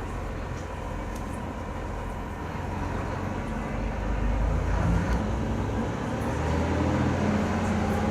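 Interior sound of a KiHa E120 diesel railcar with its DMF15HZ six-cylinder diesel engine and hydraulic transmission under way. The engine's low drone builds up over the second half, dips briefly about six seconds in, then picks up again.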